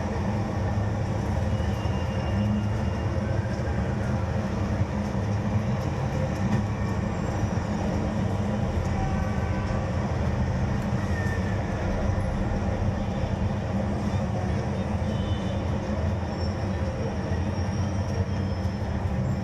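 Steady low rumble of a moving vehicle, even throughout, with a few faint brief tones above it.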